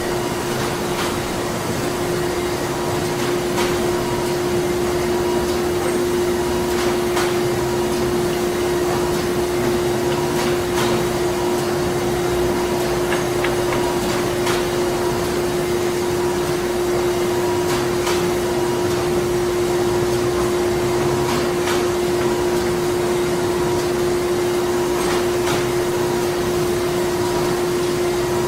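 Printing-plant machinery running steadily: a constant hum with a steady tone, and a light knock repeating about every three to four seconds.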